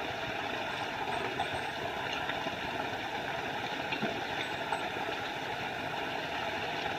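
Small forest waterfall running steadily, a constant even rush of falling water.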